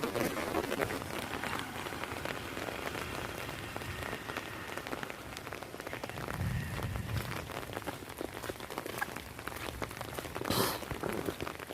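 Heavy rain drumming on an umbrella: a dense, steady patter of many fine drop ticks, with one louder splash about ten seconds in.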